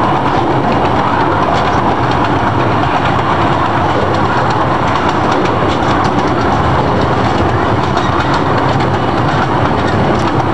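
A zoo train running along its track, heard from an open passenger car: a steady loud running noise of wheels on rails, with frequent small clicks over it.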